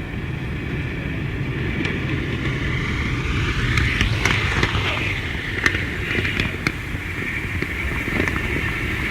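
Model train running along the layout's track: a steady rolling rumble with a higher motor whine, and several sharp clicks between about four and seven seconds in as the wheels pass over rail joints and points.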